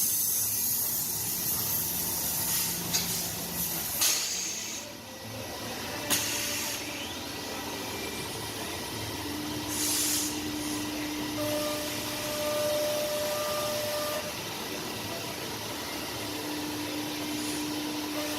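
Biesse Rover A3 CNC nesting router at work: a steady hiss with several sharp, short bursts in the first six seconds, then steady humming tones that start and stop over the rest.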